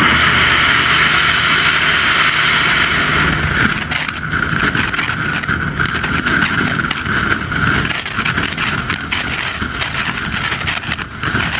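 500-gram firework fountain burning with a steady, loud hiss. About four seconds in, the hiss thins and dense crackling sets in.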